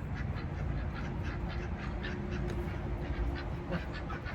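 Domestic ducks quacking in a quick run of short calls over a steady low rumble.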